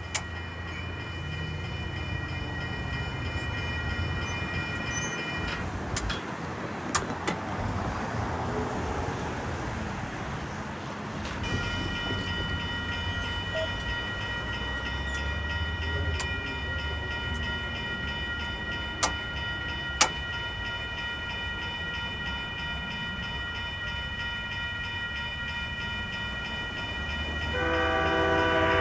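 Diesel commuter train with a steady low engine rumble, under a steady high-pitched ringing that drops out for several seconds in the middle. A few sharp clicks sound along the way, and near the end the train's horn starts a loud, steady chord.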